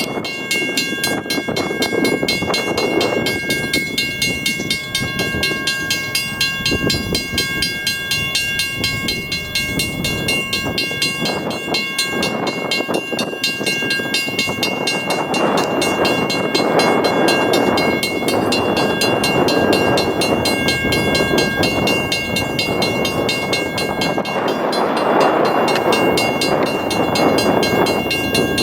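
A WCH mechanical crossing bell ringing rapidly and continuously, its dings steady throughout, over the noise of an approaching freight train that grows louder in two swells.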